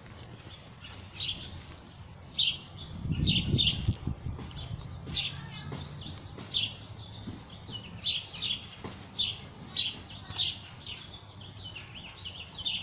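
A small bird chirping repeatedly, short high tweets about once or twice a second. A louder low rumble comes about three to four seconds in.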